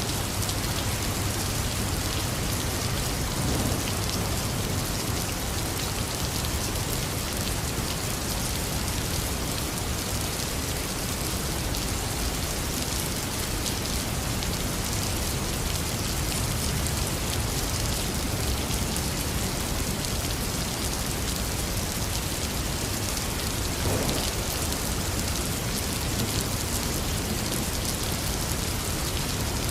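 Heavy rain pouring steadily, a dense even hiss of drops on surfaces, with a low rumble underneath.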